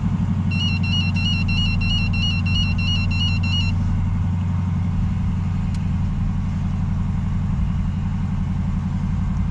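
Dodge Durango's 5.7 L Hemi V8 idling steadily, heard from inside the cabin. For about three seconds near the start, a dashboard warning chime repeats about four times a second.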